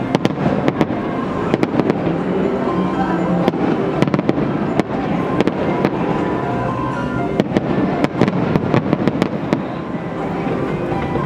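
Aerial fireworks display: a rapid, irregular series of sharp bangs and crackles from bursting shells, coming thickest in clusters a few seconds apart.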